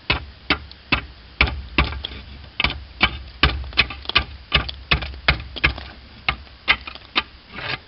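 Slater's hammer chopping along the edge of a slate shingle to trim it to a marked line: a steady run of sharp strikes, about three a second.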